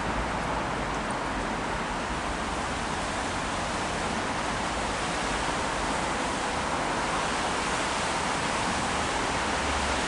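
Heavy rain pouring down in a steady, even hiss, slightly louder in the second half.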